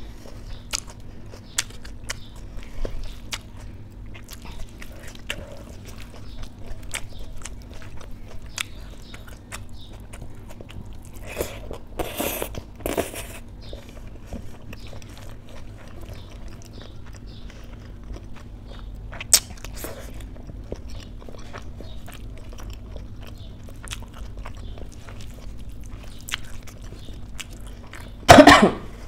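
Close-miked chewing and wet mouth smacks of someone eating rice mixed with mashed vegetables by hand, with small clicks throughout. Louder noisy bursts come around twelve seconds in and again, loudest of all, near the end.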